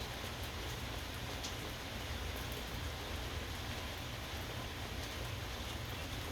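Steady rain falling, an even hiss with faint scattered drop ticks, over a low steady rumble.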